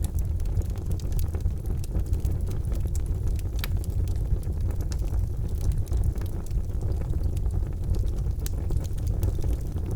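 Charcoal fire burning in a fireplace: a steady low rumble with scattered sharp crackles and pops throughout, one louder pop a little before the middle.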